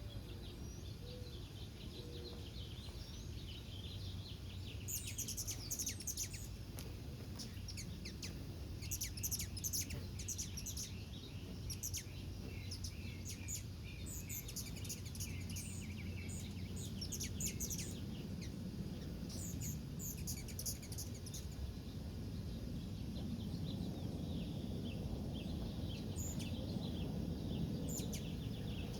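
Birds chirping in several bunches of quick, high chirps, over a steady low background rumble.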